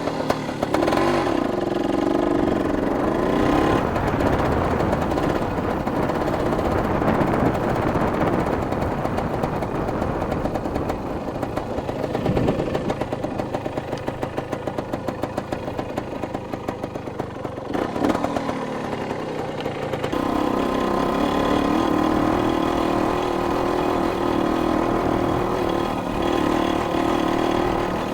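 Dirt bike engine being ridden: the revs rise and fall, drop to a slower low-rev chug in the middle, then hold steady at a higher pitch for the last several seconds.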